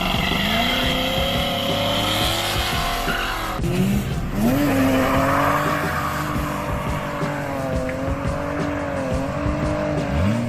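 Lamborghini Aventador SVJ V12 with an aftermarket exhaust, loud at high revs. The engine note climbs and holds, drops off briefly about three and a half seconds in, then climbs again and holds until it cuts off at the end.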